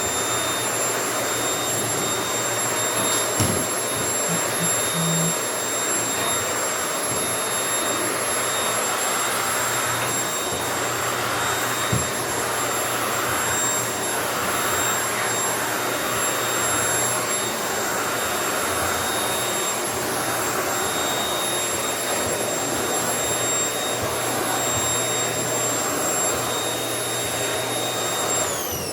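Vacuum cleaner running steadily with a high motor whine, picking up sand and hair from the floor. Right at the end it is switched off and the whine falls in pitch as the motor winds down.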